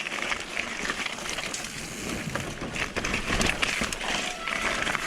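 Mountain bike rolling over a rocky trail: tyre noise and the bike rattling, with many small knocks and clicks and a low rumble about three seconds in.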